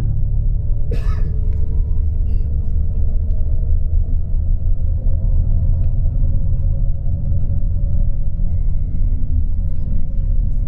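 Steady low rumble of a tour coach's engine and tyres heard from inside the passenger cabin, with a faint steady whine over it and a single brief click about a second in.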